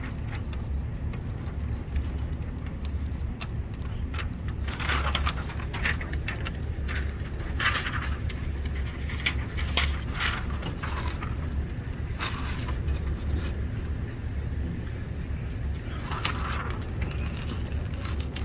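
Irregular rustling and scraping from handling as a paper target is changed, over a steady low hum.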